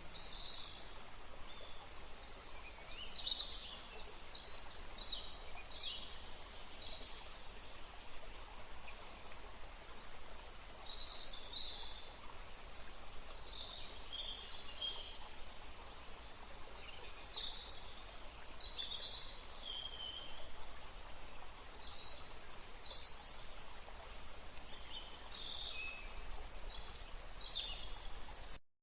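Several birds chirping and singing in short, scattered calls over a steady hiss of flowing river water. Everything cuts off suddenly just before the end.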